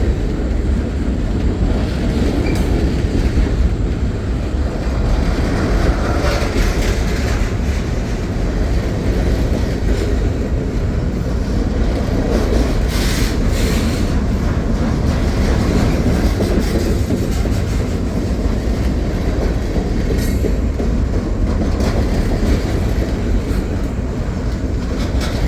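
Freight cars of a CSX manifest train rolling past close by: a steady heavy rumble with wheel clatter over the rail joints and a few brief clanks. The cars are trash cars that the filmer believes to be running empty.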